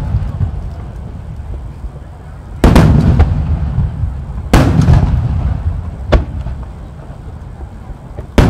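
Large shakudama (30 cm) aerial firework shells bursting in a rapid series. Two heavy booms come about two and a half and four and a half seconds in, with sharper single cracks between them and a third boom at the very end, and each boom rolls on into a low rumbling echo.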